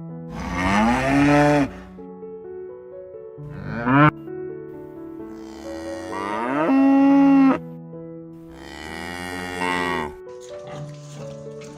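Cow mooing four times, long pitched calls with one short one in between, over soft background music.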